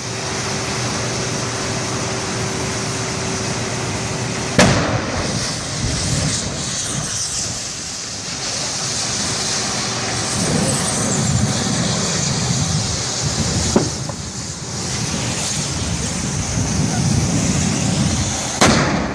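Steady traffic noise broken by three sharp bangs, about 4.5 s in, about 14 s in and near the end, the first and last the loudest: explosions from a burning truck.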